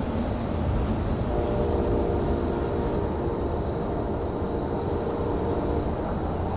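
Railyard ambience: a steady low rumble. A faint held tone of several pitches joins about a second in and fades near the end.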